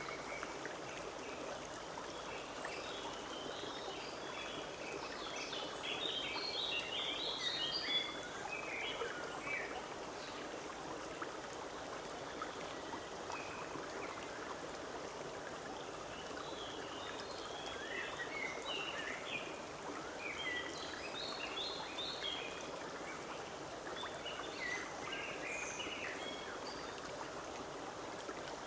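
A forest stream running steadily over stones, with a songbird singing short runs of chirps over it three times.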